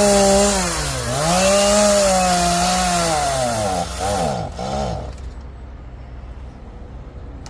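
Two-stroke gas chainsaw running at speed, then bogging down about half a second in: its pitch falls, surges back up, sputters through several quick dips and cuts out about five seconds in. The saw has run out of gas.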